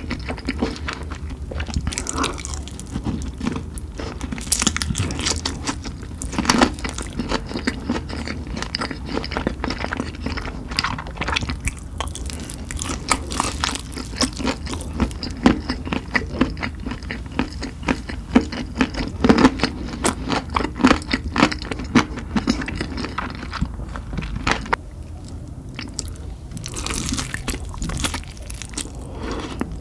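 Close-miked eating of spicy chicken: repeated bites and chewing with crunches and crackles scattered throughout, over a steady low hum.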